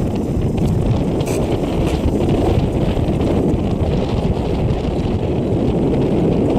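1972 Chevrolet Nova's engine running in a steady low rumble, with wind buffeting the microphone.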